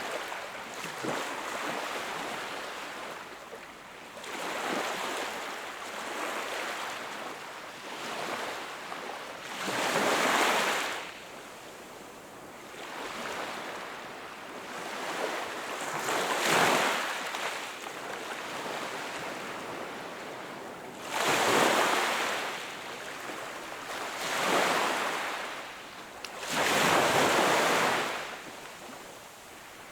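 Sea waves breaking and washing up on the shore: a steady wash of surf with a louder surge every few seconds, five of them standing out.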